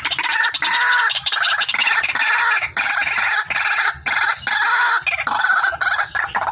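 Female white-breasted waterhen (ruak-ruak) calling: a fast, continuous run of repeated notes that rise and fall in pitch.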